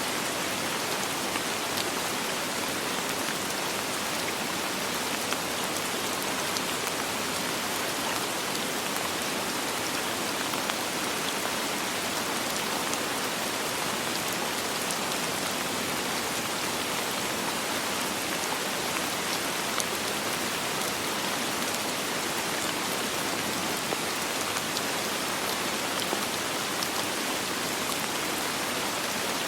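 Steady rain falling on a surface, an even hiss with scattered small drop ticks and no thunder.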